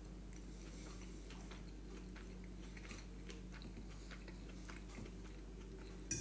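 Faint chewing with small mouth clicks as a person eats a forkful of food, and a fork clicking against the bowl near the end.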